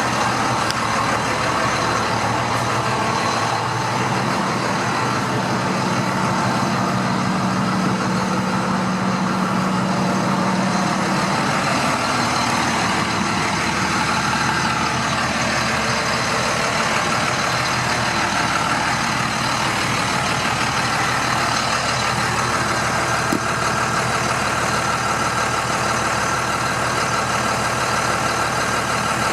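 2007 International 4300 box truck's DT466 inline-six diesel engine idling steadily.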